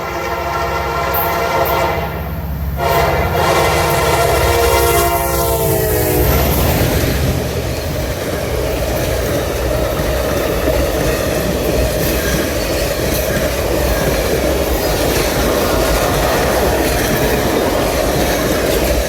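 Diesel locomotive air horn blowing a short blast and then a longer one, its pitch falling about five seconds in as the locomotive passes. Then comes the steady rumble and wheel clatter of the train rolling by.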